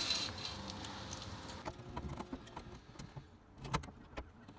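Faint scattered clicks and a few light knocks, the clearest near the end, from tools and sheet metal being handled.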